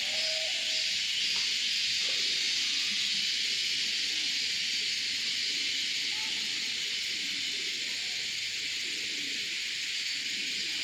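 Steady high-pitched hiss at an even level, with faint, indistinct low sounds beneath it.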